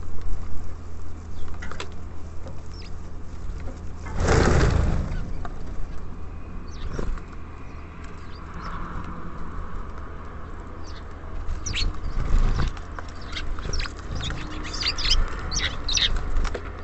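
Small birds at a feeder: a burst of wing flapping about four seconds in, then short high chirps and light pecking clicks through the second half, with a single sharper knock. A steady low rumble runs underneath.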